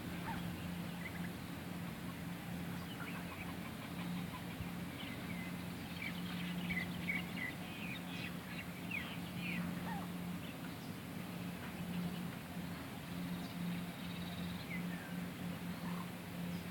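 Birds calling in short chirps, busiest in the middle, over a steady low hum.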